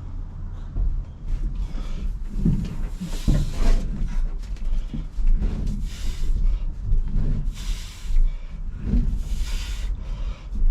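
Pickup truck rolling with its engine dead, a steady low rumble with short rasping hisses every couple of seconds.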